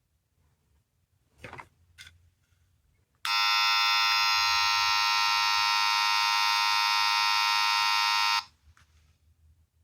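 Small sound-effect capsule toy: two faint clicks as it is worked, then its tiny speaker plays a loud, steady electronic alarm-like ringing tone for about five seconds that starts and cuts off abruptly.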